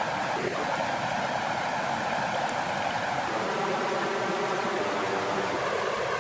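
Steady flowing water, an even unbroken rush of gently moving water.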